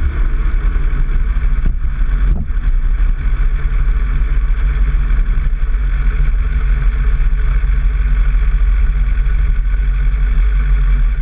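Motorcycle engine idling steadily, a deep even note with two faint clicks a couple of seconds in.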